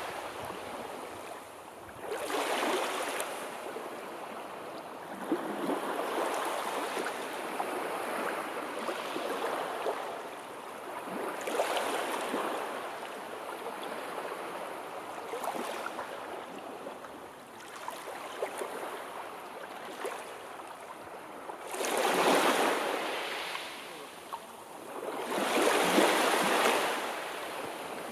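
Sea waves washing in, swelling and falling every few seconds, the two loudest surges coming near the end.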